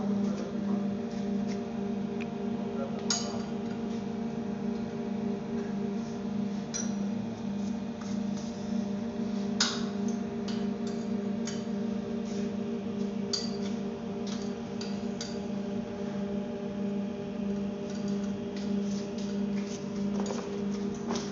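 25-inch impact pulverizer running with a steady droning hum, with scattered sharp ticks and clinks over it. The loudest click comes about halfway through.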